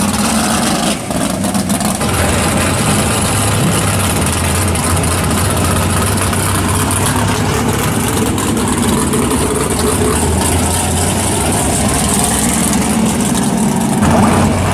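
Classic muscle car engines running at low speed, a loud steady rumble as the cars roll by slowly. The sound shifts abruptly about two seconds in and again near the end as one car gives way to the next.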